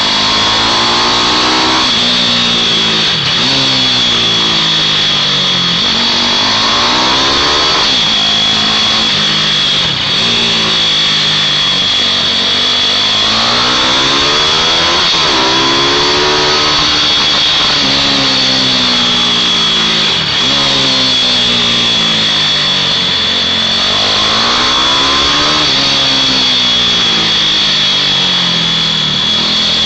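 Several mini motorbikes racing, their small engines revving up and dropping back again and again as they accelerate and slow for the corners, with a steady high whine above.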